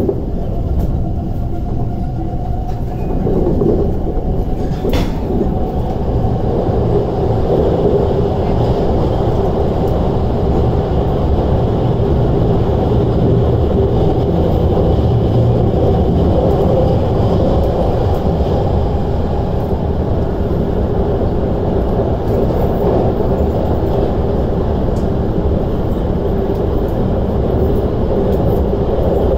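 Cabin noise of an MTR East Rail Line SP1900 (IKK) electric train running at speed: a steady, loud rumble of wheels on rail and running gear. A single sharp click sounds about five seconds in.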